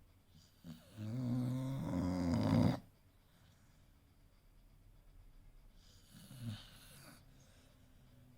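American Bully dog snoring: one loud, drawn-out snore of about two seconds, then a fainter, shorter one some three seconds later.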